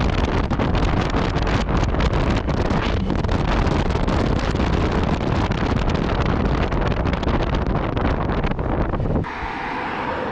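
Wind buffeting the microphone of a motorcycle-mounted action camera at riding speed, with the Yamaha MT-09 Tracer's engine running underneath. About nine seconds in, the wind noise drops off abruptly to a quieter sound with a steady tone.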